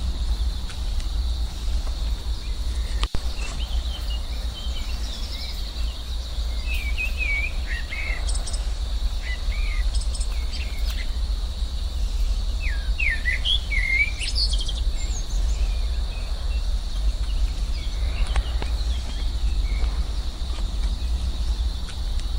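Birds chirping in short gliding calls, most of them in the middle stretch, over a steady high insect drone and a constant low rumble, with one sharp click near the start.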